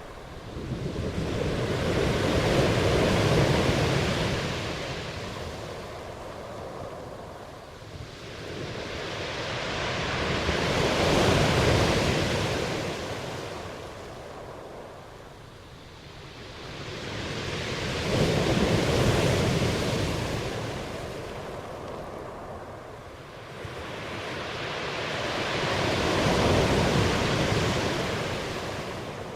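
Ocean waves washing onto a shore: four slow swells of surf about eight seconds apart, each building up and fading away.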